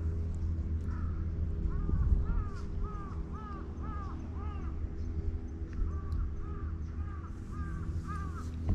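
A bird calling in two quick runs of short, repeated calls, about three a second, over a steady low rumble.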